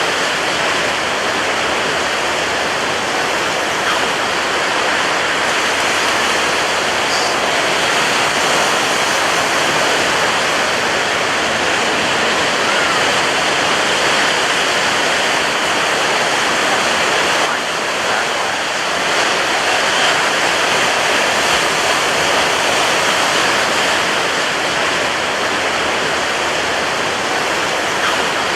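Rough beach surf, waves breaking one into another as a steady, dense wash of noise with hardly any let-up, easing slightly for a moment about two-thirds of the way through.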